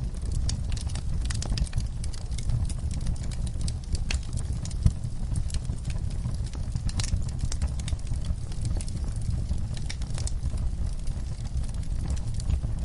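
Wood fire in a fireplace crackling: a steady low rumble of flames under frequent, irregular sharp snaps and pops, with one louder pop about five seconds in.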